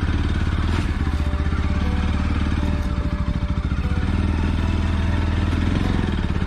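Bajaj Pulsar NS200 single-cylinder motorcycle engine running steadily, with a fast, even firing pulse.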